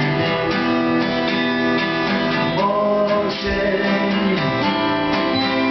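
Two acoustic guitars strummed and picked in a song's instrumental passage, with chords held and changing.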